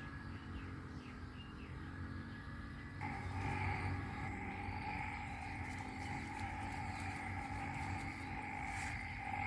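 Frog chorus: faint scattered calls, then about three seconds in a dense chorus of frogs starts up all at once and keeps going steadily.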